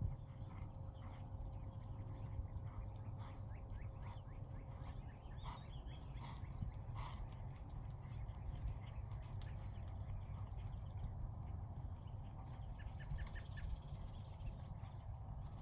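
Birds chirping and calling in the background over a steady low rumble.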